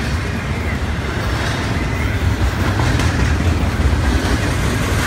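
Double-stack intermodal well cars of a long freight train rolling past: a steady low rumble of steel wheels on rail, growing a little louder near the end.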